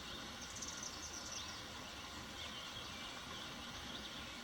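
Faint outdoor ambience: a steady low background hush with a few faint, short, high chirps.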